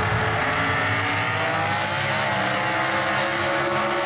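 An engine running steadily, its pitch drifting slightly down and back up.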